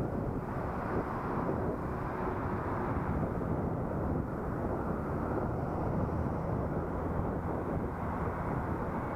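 Steady riding noise picked up by a helmet-mounted action camera: a continuous low rumble of wind and vehicle noise, with no breaks.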